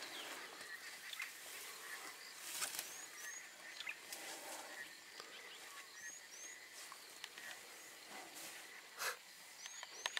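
A bird repeating a pair of short, high, rising whistles about every three seconds over quiet bush ambience, with scattered faint rustles and clicks and a louder brief rustle about nine seconds in.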